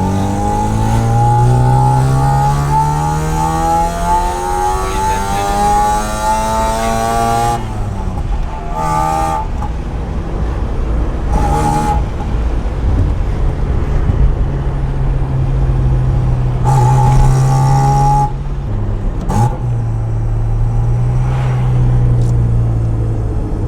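Mazda RX-7 FC's 13B rotary engine accelerating under load. The revs climb steadily for about seven seconds, drop at a gear change, then settle to a steady pull with small rises and dips.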